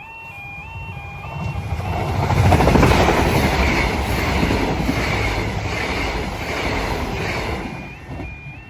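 A train passes over a level crossing. It rises to its loudest about three seconds in and fades near the end. The crossing's alternating two-tone warning alarm sounds at the start and is then drowned out by the passing train.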